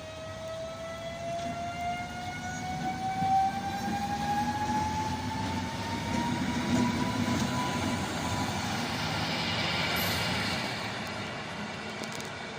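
A train passing over a rumble of wheels on rails, with a whine that rises steadily in pitch for about eight seconds and then levels off, typical of electric traction motors as the train gathers speed. The passing noise swells to its loudest near the end and then fades.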